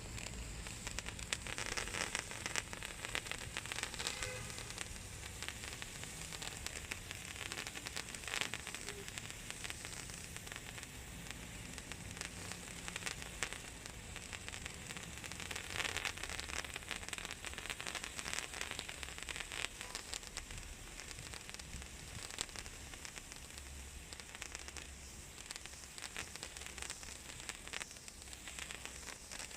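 Ice sparkler firework fountain burning, a steady crackling sizzle of spraying sparks with many fine ticks.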